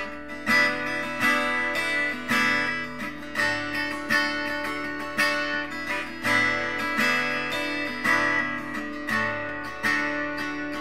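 Acoustic guitar strummed in a slow, steady pattern, a chord struck roughly once a second, as an instrumental break in a slow ballad with no singing.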